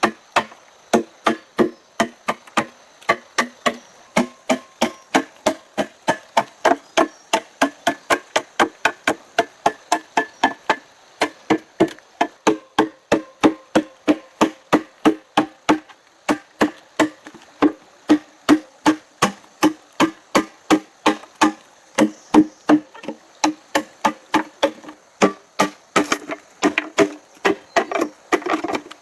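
Steady, fast chopping on wood, about three strikes a second, each blow giving a short, hollow ringing knock.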